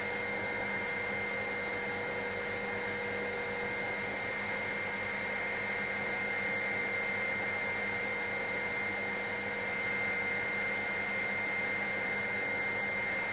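Helicopter in flight, a steady drone with a constant high whine over it, as heard inside the cabin.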